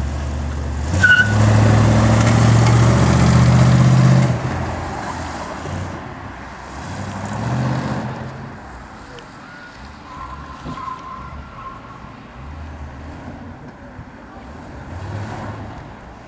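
1969 Ford Torino's 302 small-block V8 revving hard off the start line about a second in and holding loud for a few seconds. It then drops back and swells again twice as the car works through the cones.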